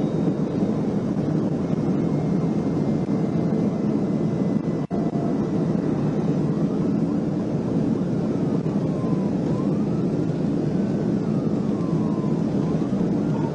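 Steady road and wind roar of a police cruiser in pursuit at about 140 mph, heard from the dashcam, with a faint siren wail rising and falling in the second half. The sound drops out for an instant about five seconds in.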